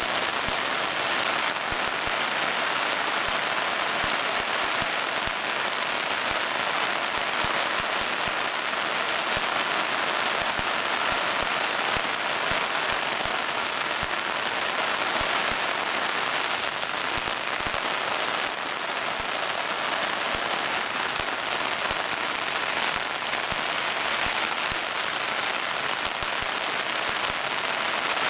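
Steady heavy rain: an even hiss with a dense patter of drops.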